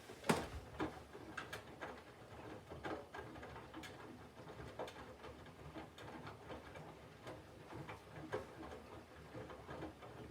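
Candy GVF4 front-loading washing machine in its Mix Power System + phase, early in the wash: a low hum with irregular soft knocks and clicks as the drum turns the load. The loudest knock comes about a quarter second in.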